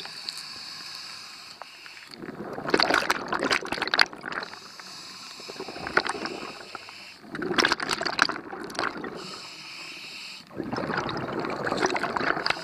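Scuba diver breathing through a regulator underwater. There is a steady hiss on each inhale and a rush of bubbles on each exhale, with three exhales a few seconds apart.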